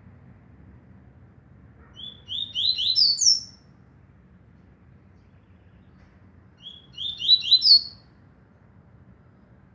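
Papa-capim, a Sporophila seedeater, singing twice, each song a short quick run of notes that climbs in pitch and speeds up, the 'trovão' song style.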